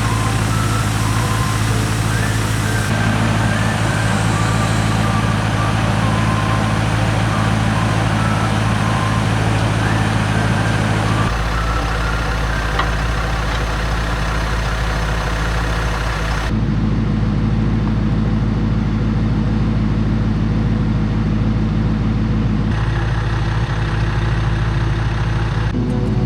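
Pickup truck running, a steady low engine drone that changes character abruptly several times, as between spliced shots.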